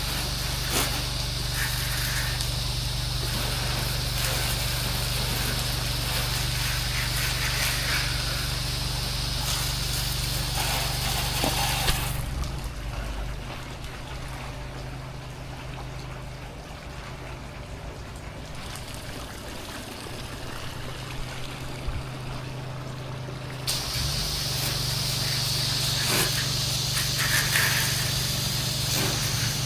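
Gas-engine pressure washer running with its spray hissing. About twelve seconds in the spray stops and the engine note drops, and the spray starts again about twenty-four seconds in.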